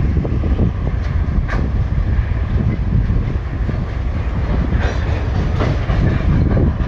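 Freight train of empty log wagons rolling past, wheels clacking over rail joints over a heavy steady rumble, with a few sharp clanks about one and a half and five seconds in.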